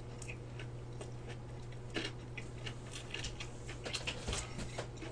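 Close-miked chewing of a large mouthful of gimbap: irregular soft wet clicks and smacks, busier from about two seconds in, over a steady low hum.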